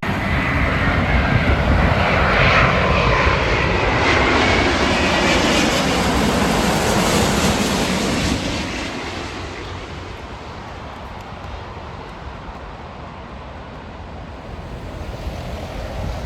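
Jet airliner passing overhead, its engine roar loud for the first half with a falling whine, then fading away after about eight seconds.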